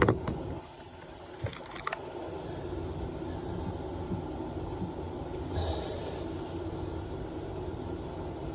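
Hand tools working on a compression fitting on a copper pipe stub: a sharp metal clink, a few lighter clicks about two seconds in, and a brief scrape near the end, over a steady low hum.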